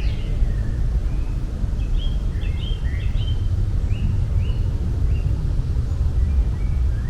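Small birds chirping in short, scattered notes over a steady low outdoor rumble.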